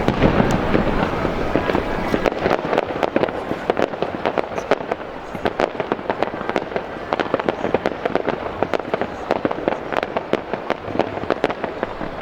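Fireworks going off in quick succession: a dense run of sharp cracks and bangs over a steady crackle, loudest in the first couple of seconds.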